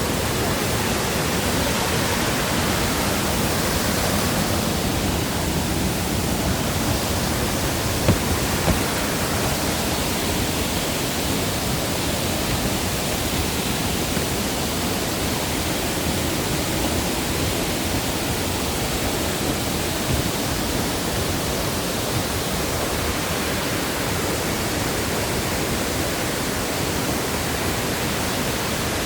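Steady rush of water in a mountain stream, an even unbroken noise. A couple of brief knocks come about eight seconds in, and another about twenty seconds in.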